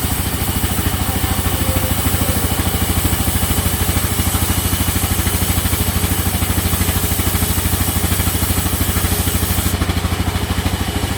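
Sawmill machinery running steadily, a motor-like drone with a fast, even pulse that holds unchanged.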